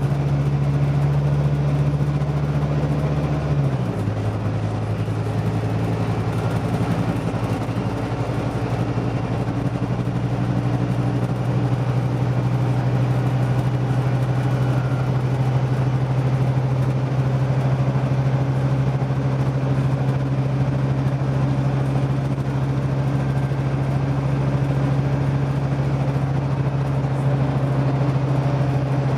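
Scania OmniDekka double-decker bus's diesel engine running steadily. Its pitch drops a little about four seconds in and then holds.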